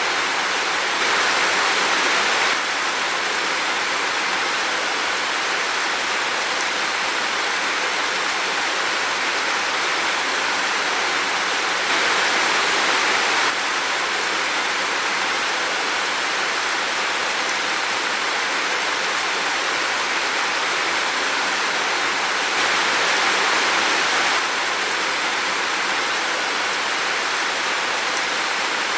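Heavy rain falling steadily, a dense even hiss that swells slightly louder three times for a second or two.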